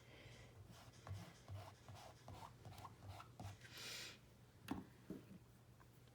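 Faint scraping and rubbing of hands working over a stencil on a board, with scattered light taps and a short hissing scrape about four seconds in.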